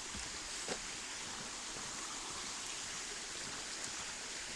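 Shallow stream flowing with a steady, even rush of water.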